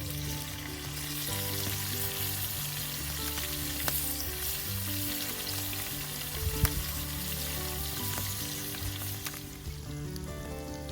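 Ajillo frying in hot oil in a skillet: a steady sizzle with a few sharp pops, the loudest about two thirds of the way in. Background music plays underneath.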